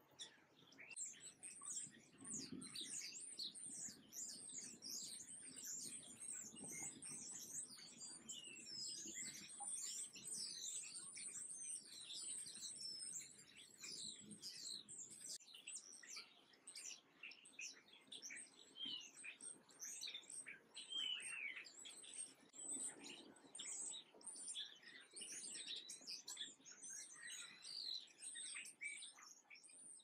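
Many small birds chirping and twittering continuously in a dense, high-pitched chorus of short, quick notes.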